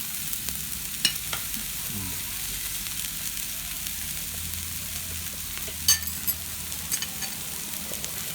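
A steady hiss with a few sharp clinks of cutlery and dishes at a meal table, the loudest about a second in and again about six seconds in.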